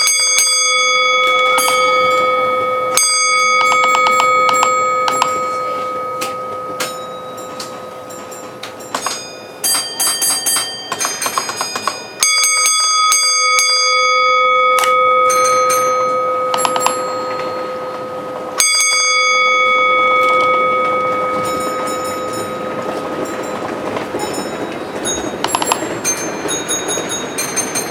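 A bell struck three times, about twelve and six seconds apart. Each stroke rings out loudly and fades slowly, with lighter high metallic clinks in between.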